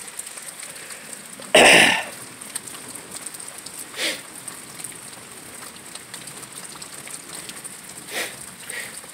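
Steady rain falling, with one loud, short cough-like burst about a second and a half in and two fainter short ones later.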